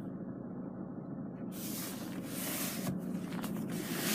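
Steady low hum with hiss from a vehicle running at idle.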